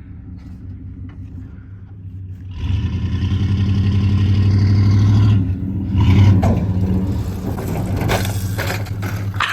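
Mini quad's small engine running, revved up hard about two and a half seconds in, easing off around five seconds, then revved again briefly before settling to a steadier run.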